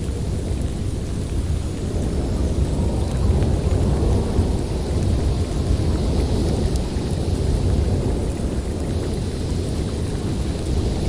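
Blizzard wind: a loud, continuous deep rumble and rush of a snowstorm, swelling in gusts about a third of the way in.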